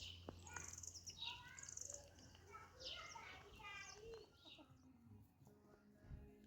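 Faint bird chirps, many short calls in quick succession that thin out after about four seconds.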